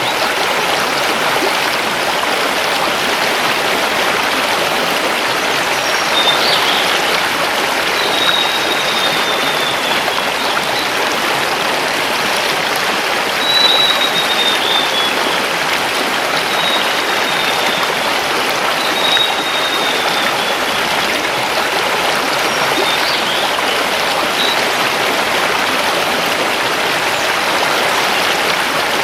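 Mountain river flowing over stones, a steady rush of water. A forest bird sings over it several times through the middle, with thin, high whistles that fall slightly, and a few short chirps.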